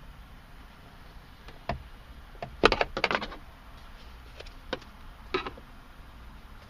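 Plastic glove box of a 2010 Subaru Forester clicking and knocking as a flathead screwdriver pries its side stop tabs past the dash sidewall: a single knock, then a loud cluster of clicks and rattles about two and a half seconds in, and two smaller clicks near the end.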